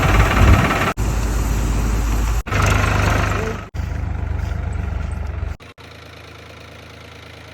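Farm machine's engine running steadily with a strong low rumble, in several short clips joined by abrupt cuts; for the last two seconds only a much quieter steady hum remains.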